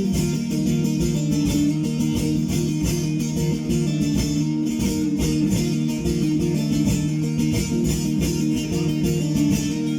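Bağlama (long-necked Turkish saz) playing an instrumental interlude of semah music without singing: rapid plucked notes over a steady low drone.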